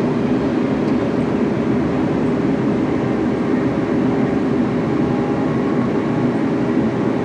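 Steady running noise of a moving passenger train, heard from on board, with a low hum running under it.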